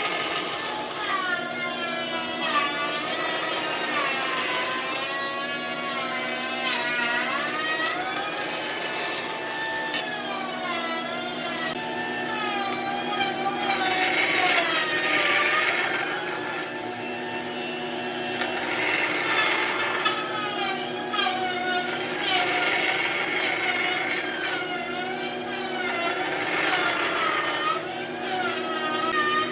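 A power tool working wood, its motor pitch rising and falling as it is pressed into the work and eased off, with spells of louder hiss from the cut or abrasion coming and going every few seconds.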